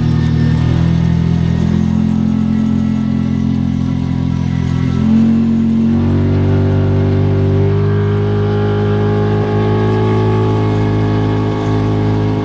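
Kawasaki Teryx 4 side-by-side's V-twin engine running steadily under way, its revs stepping up about halfway through and holding at the higher pitch.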